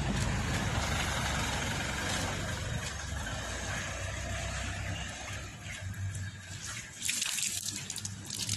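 Water spraying during a car wash: a steady hiss that breaks into louder, uneven splashing bursts near the end.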